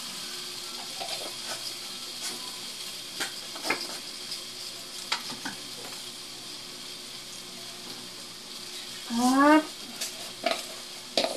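Mussels sautéing in a stainless steel pot, with a steady sizzle and scattered light clicks of utensils and seasoning containers. A brief rising squeal sounds about nine seconds in.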